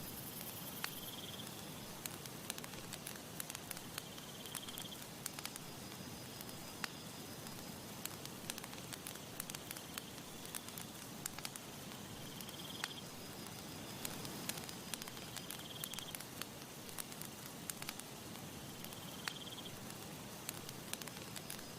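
Campfire crackling, with sharp irregular pops and snaps over a steady soft hiss. A short high chirp recurs about every three seconds.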